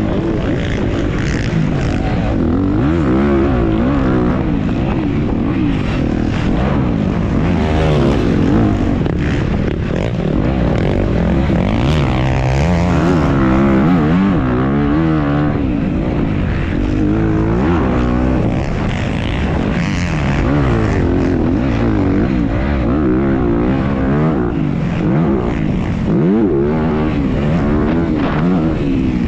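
Off-road racing dirt bike engine heard from the rider's onboard camera, revving up and falling back again and again as the throttle is worked through the track sections, with a steady rushing noise underneath.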